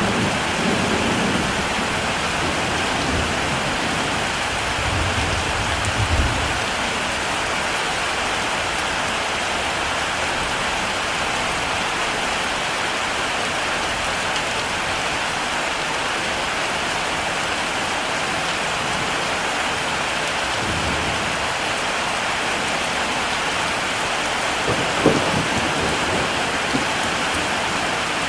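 Heavy rain falling steadily, with low rumbles of thunder at the start, about five seconds in and about twenty seconds in, and a brief sharp crack near the end.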